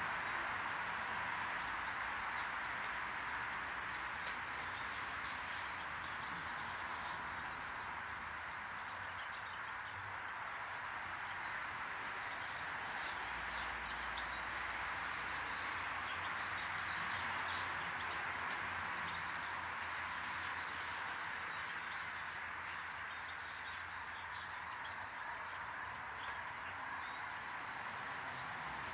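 Small garden birds chirping in short, high calls at a feeding table, with a brief louder flurry of calls about seven seconds in, over a steady background rush of noise.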